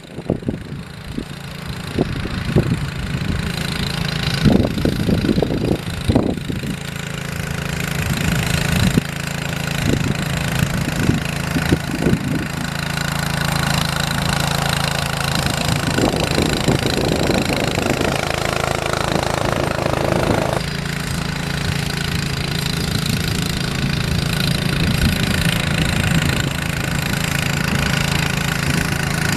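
Engine of a snow-clearing machine running steadily, with a string of clunks and knocks in the first dozen seconds.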